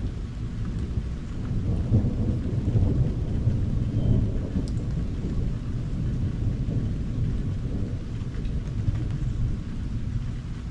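Thunder rumbling over steady rain, the rumble swelling about two seconds in and easing off after about four seconds.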